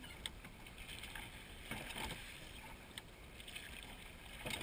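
Oars of a seine boat crew rowing: faint knocks of oars in their locks and swishes of blades through the water, spaced irregularly about a second apart, over a low steady rumble.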